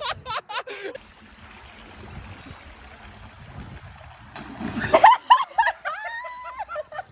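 Water splashing and running, with a loud splash about four and a half seconds in, followed by high-pitched cries.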